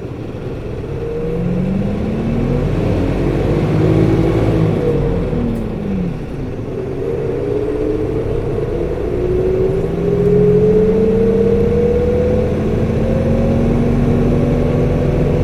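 Nissan Diesel Space Runner RA city bus (PKG-RA274KAN) pulling away and accelerating, heard from inside: the engine pitch rises, drops at a gear change about five seconds in, then climbs again and holds steady. Its engine coupling fan runs along with it, whirring high for the engine speed.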